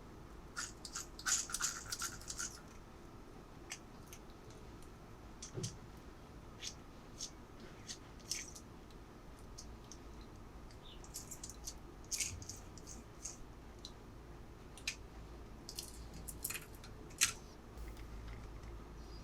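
Small plastic pieces and packaging being handled: scattered light clicks and taps, with a short burst of crinkling in the first couple of seconds.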